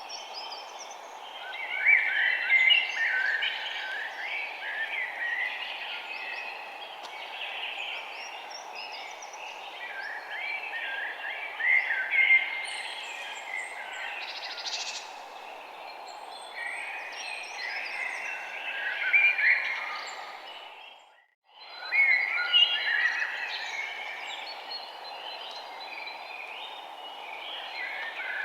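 A chorus of many small songbirds chirping and trilling over a steady background hum of outdoor noise. About two-thirds of the way through, the whole sound fades out to near silence for about half a second and fades back in.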